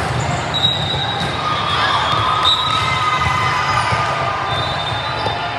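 Gymnasium noise during a youth volleyball match: spectators chattering and calling out over the hum of a large hall, with several high squeaking tones that come and go.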